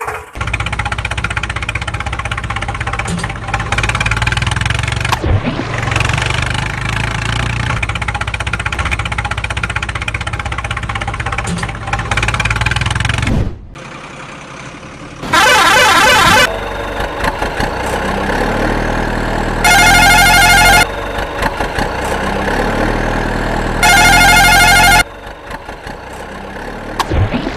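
Truck engine sound running steadily for about thirteen seconds. After a short lull come three loud horn blasts, each about a second long and about four seconds apart, the first one warbling, with engine sound running between them.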